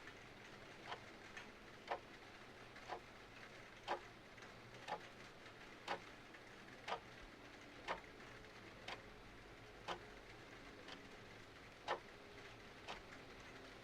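Mechanical clock ticking steadily, one tick a second, the ticks alternating louder and softer in a tick-tock, over a faint steady hiss.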